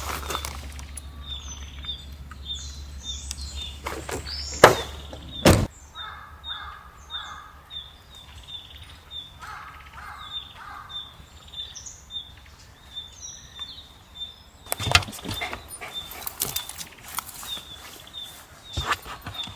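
Birds calling in a forest: a short high chirp repeated about twice a second, with scattered other calls above it. A low hum stops about five seconds in, and a couple of sharp knocks fall near the same moment.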